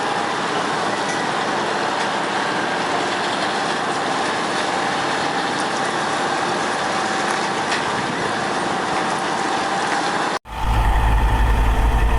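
Heavy vehicle noise: a steady mechanical hiss with a faint whine running through it. About ten seconds in it cuts off abruptly, and a louder, deep engine rumble follows.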